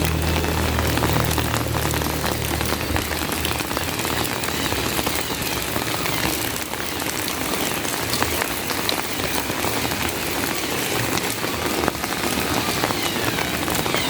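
Steady heavy rain falling, a dense even hiss with many small drop impacts. A low vehicle rumble fades away over the first few seconds.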